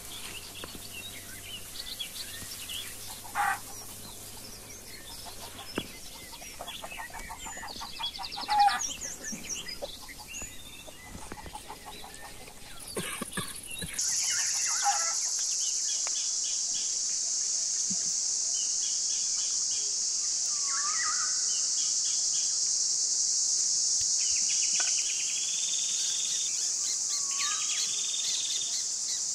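Chickens clucking and small birds chirping, scattered, for the first half. About halfway a steady high-pitched insect chorus starts and carries on, the loudest sound, with a few more bird calls over it.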